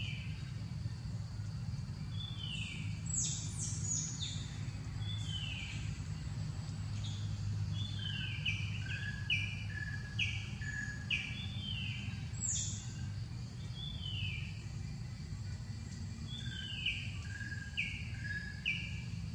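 Forest birds calling: many short chirps that slide down in pitch, repeated every second or so, with a few higher sweeping notes, over a steady low rumble of background noise.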